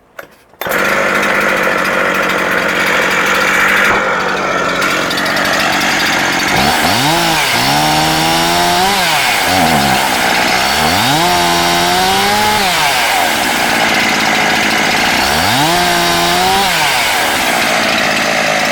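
Husqvarna 372 XP chainsaw's two-stroke engine starting up about half a second in, then running, revved up and back down three times with the throttle.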